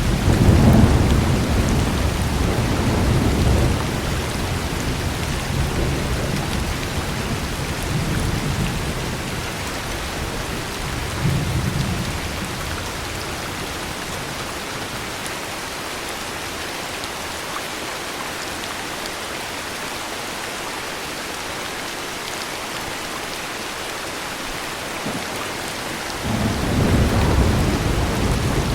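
Steady heavy rain with rolls of thunder: a loud low rumble at the start that lasts about four seconds, smaller rumbles at about eight and eleven seconds, then only rain until another roll of thunder builds near the end.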